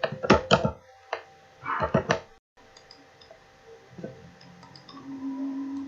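Computer mouse clicks in two quick runs, near the start and about two seconds in, while lines are picked and trimmed in CAD software. A steady low hum follows near the end.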